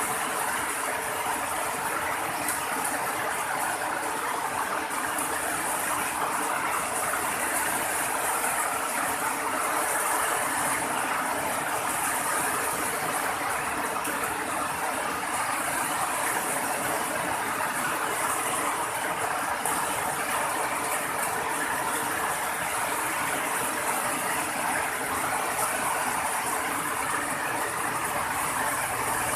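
Steady rain falling, an even hiss that does not change, with a faint steady hum underneath.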